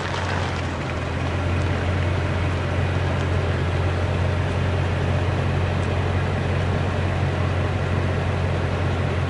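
A steady, unbroken low mechanical hum with a faint hiss above it.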